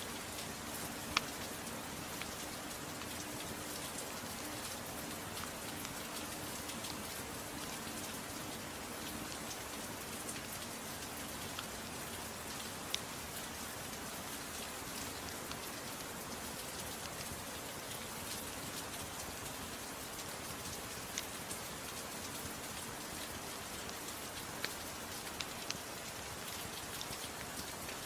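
Steady soft rain falling, mixed with a wood fire in a fireplace that gives a few scattered sharp crackling pops.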